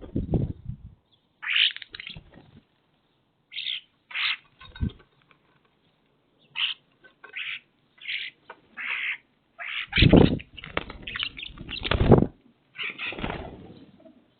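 Birds giving many short chirps and squawks in quick, irregular succession, broken by several deep, loud thumps.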